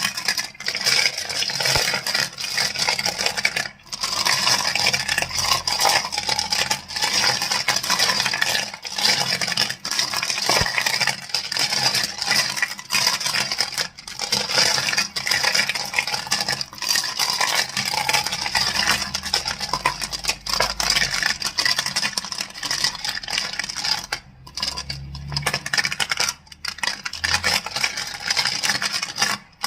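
Crystals clicking and clattering against each other in a dense, rapid run of clicks, with brief pauses about four seconds in and near the end, cutting off suddenly at the very end.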